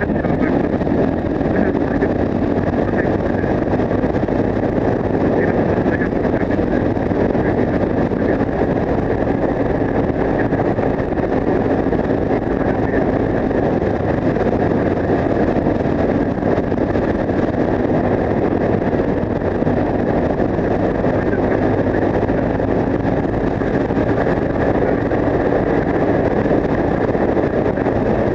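Yamaha TW 125's single-cylinder four-stroke engine, fitted with an Akrapovic exhaust, running steadily while the bike rides along, with wind buffeting the microphone.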